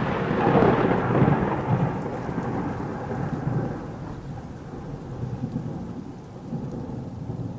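Thunder rumbling and slowly dying away after a sharp clap, with a steady hiss of rain.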